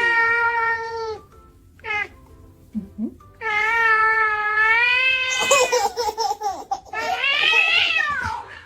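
A cat meowing in long, drawn-out calls: three long meows with a short one between the first two, the last one rising and then falling in pitch.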